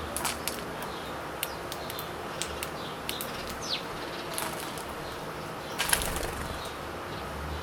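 Birds feeding, with brief wing flutters and short chirps over a steady background. A louder flurry comes about six seconds in.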